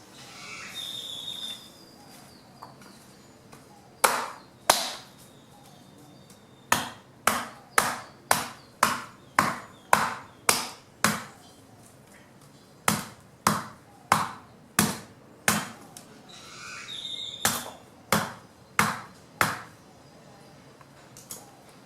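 Blade chopping fallen branches into wood chips by hand: sharp, separate strikes in bursts, about two a second, a couple at first, then a long run of about a dozen, then shorter runs, with pauses between. A brief hissy rustle sounds near the start and again shortly before the last strikes.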